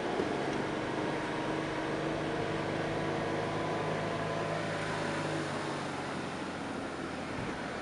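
A car driving along, with a steady rush of wind and road noise and a low engine hum that fades about six seconds in.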